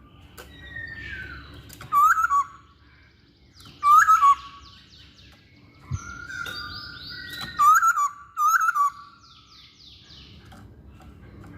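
Masked laughingthrush (poksay Hongkong) singing: loud, curving whistled phrases every couple of seconds, with fast runs of higher, quicker notes between them.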